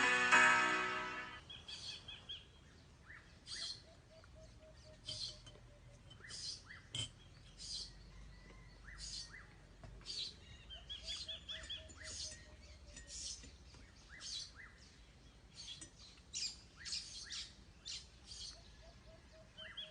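Background music fades out in the first second or so, then several birds chirp and call: many short, sharp chirps, and now and then a quick, lower run of repeated notes lasting a second or two.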